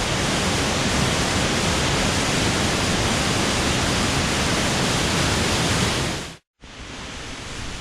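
Steady, loud rush of a waterfall close by. It cuts off sharply about six and a half seconds in and, after a brief silence, gives way to a quieter rush of water.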